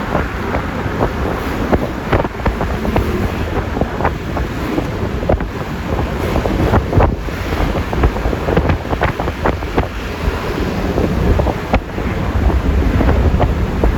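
Wind buffeting the microphone and road noise from a Yamaha Lexi LX 155 scooter riding along at speed, with frequent short gusts and knocks.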